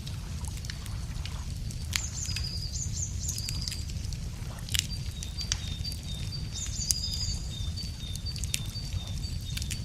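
Wood fire crackling, with sharp pops every second or two over a steady low rumble. Songbirds sing over it: quick high trilled phrases twice, and a long run of short high notes alternating between two pitches.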